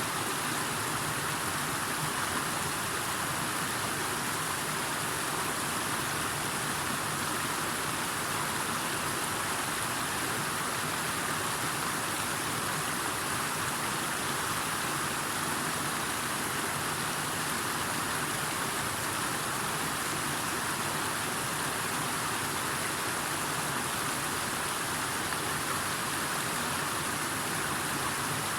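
Steady, even rush of water noise that does not change in level.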